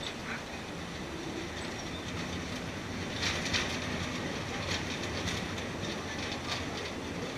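Railway carriage running along the track with a steady rumble, its wheels clacking over the rail joints: a quick run of clacks about three seconds in and a few single clacks after, heard from inside the carriage.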